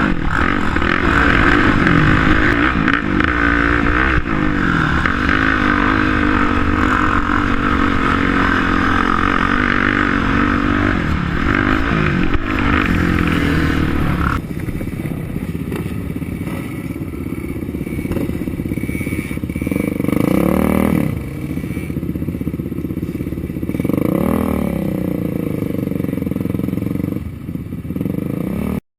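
Quad bike engines racing: several engines running hard under load, then thinner with the revs swelling and dropping away twice in the second half. The sound cuts off abruptly just before the end.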